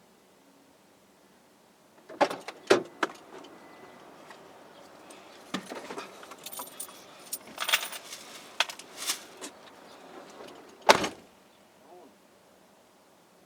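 Keys jangling and rattling, with scattered clicks and handling knocks, ending in one loud sharp knock.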